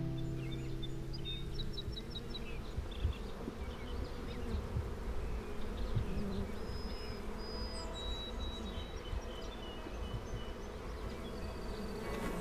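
Honey bees buzzing in a steady mass, with scattered short high chirps above the buzz.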